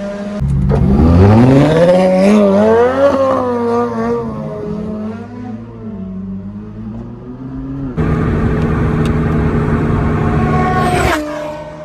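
Ferrari V8 engine revving up hard from idle, its pitch climbing for a couple of seconds before falling back to a lower, uneven run. About eight seconds in it jumps suddenly to a loud, steady high-rev run, which cuts off abruptly about three seconds later and drops back to idle.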